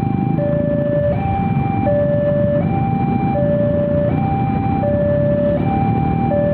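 Railway level-crossing warning alarm sounding two alternating electronic tones, low and high, each held about three-quarters of a second, over the steady rumble of a passing train.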